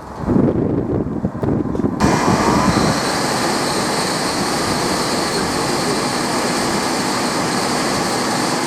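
Industrial machinery of a timber processing line running with a loud, steady noise. About two seconds in, an uneven rumbling gives way abruptly to a steady, even roar.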